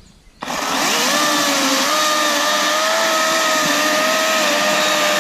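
Kobalt 24V brushless 12-inch battery chainsaw starting up about half a second in and running at full speed through a cut in a log. The electric motor's steady whine rises quickly and then dips slightly as it takes the load.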